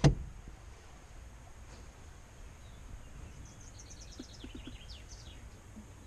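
A sharp thump right at the start, then a wild bird singing a few quick, high, falling chirps a few seconds in, over a faint steady background.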